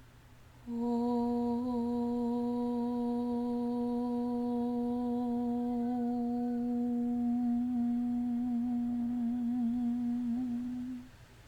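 One voice humming a single long, steady note for about ten seconds, the pitch wavering slightly near the end.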